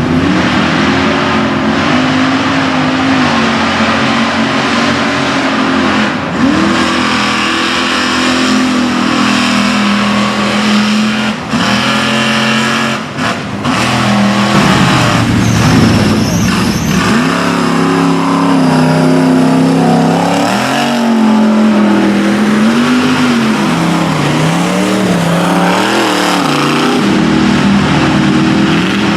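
GMC mega truck's engine revving hard under load, its pitch climbing and dropping again and again as the throttle is worked.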